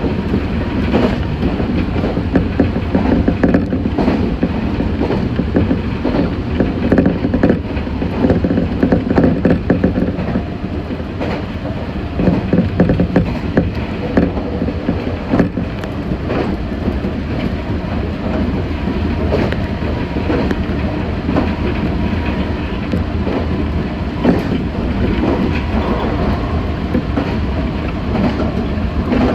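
Meitetsu 6500 series electric train running at speed, heard from inside the car: a steady rumble of wheels on rail with repeated clicks over rail joints.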